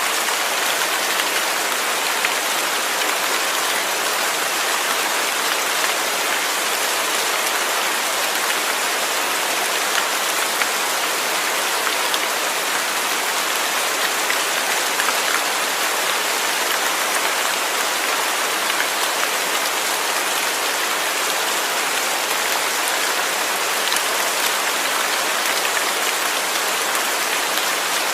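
Steady rainfall: an even hiss of rain with faint, scattered drop ticks.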